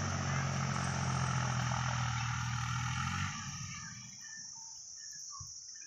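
Diesel tractor engine running steadily with a low hum, then dropping away abruptly about three seconds in.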